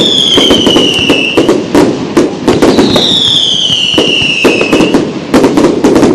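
Fireworks going off in rapid succession: a dense run of sharp cracks and bangs, with two whistles falling in pitch, one at the start and one about three seconds in.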